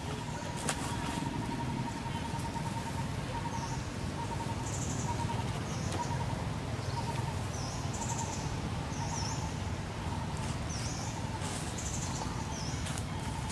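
Small birds chirping: short high chirps, some dipping in pitch, repeated every second or so, over a faint steady pulsing tone and a low background rumble.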